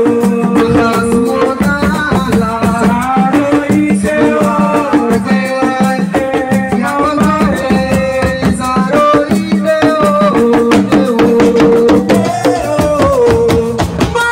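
Live Senegalese assiko band music: hand drums and shakers keep a dense, driving rhythm under a held, gliding melody line.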